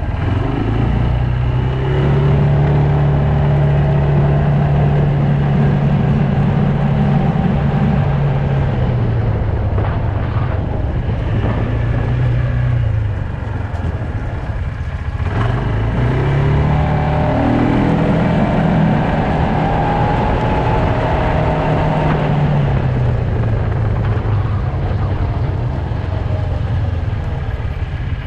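Quad bike engine under way. It picks up speed, holds steady, then eases off; about halfway through it speeds up again, holds, and slows once more.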